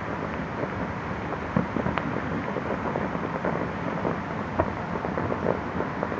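Distant fireworks display: a continuous rumble of far-off explosions with many short pops and crackles over it, the sharpest cracks about one and a half and four and a half seconds in.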